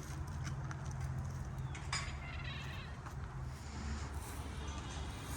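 Young dromedary camel vocalising with a low, drawn-out grumble that fades after about three seconds, with a sharp click about two seconds in.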